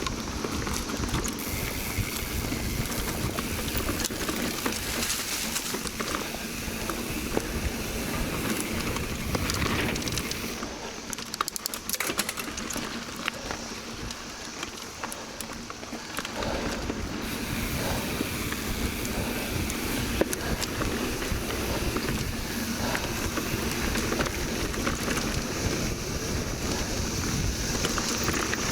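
Mountain bike ride on a dirt trail: wind rushing over the microphone, tyre rumble and rattling clicks from the bike. Under it runs a steady high chorus of 17-year periodical cicadas.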